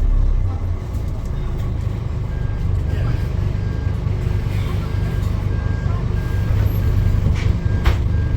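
A vehicle engine running with a steady low rumble. From about two seconds in, a faint high beep repeats at even intervals.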